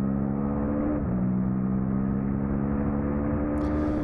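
2003 Suzuki SV650's 645 cc V-twin accelerating, its pitch climbing steadily, with a quick upshift about a second in where the pitch drops, and another upshift at the end.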